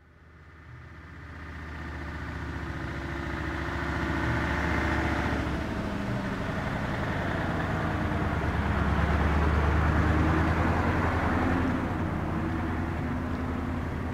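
A motor vehicle's engine running steadily, growing louder over the first few seconds.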